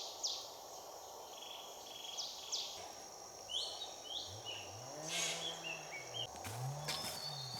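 Forest ambience: birds calling in quick, repeated high chirps over a hiss of insects. In the second half, a low tone rises and falls twice.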